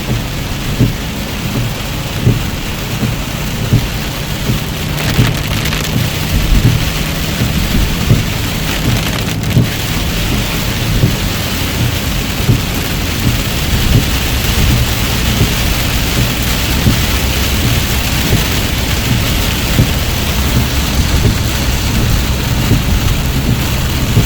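Heavy rain drumming on a moving car's roof and windshield, heard from inside the cabin, a steady loud downpour with a low rumble of road noise beneath and frequent sharp spikes of heavier drops.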